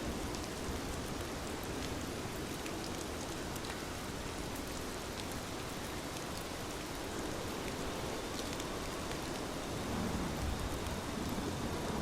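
Steady rain falling, with scattered sharp ticks of single drops and a low rumble that swells about ten seconds in.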